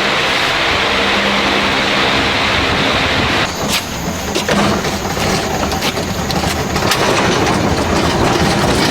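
Factory machinery noise: a steady mechanical hiss and hum that changes abruptly about three and a half seconds in to a rough run of metal clatter and knocks.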